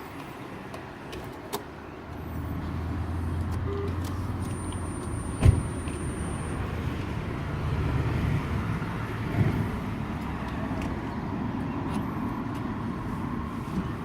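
Road traffic passing on a wet road, cars' tyres hissing as they go by. A single sharp knock sounds about five and a half seconds in.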